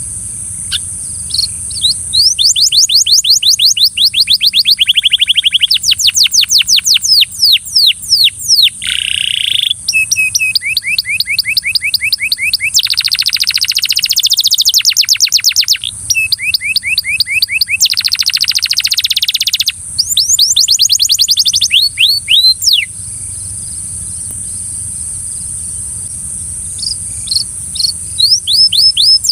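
Canary singing loudly: phrase after phrase of fast trills, each a rapid run of repeated falling notes, the trill type changing every second or two. The song stops for a few seconds and starts again near the end, over a steady high hiss.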